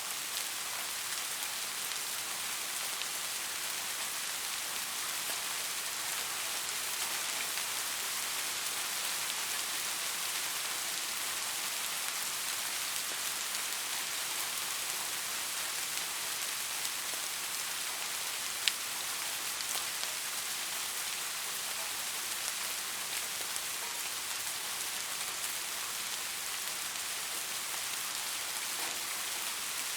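Steady rain falling, an even hiss of drops on a surface. A single sharp click stands out a little over halfway through.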